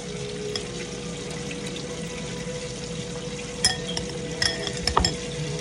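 Steady sizzle of catfish frying in hot oil, with a few sharp clinks of kitchenware in the second half.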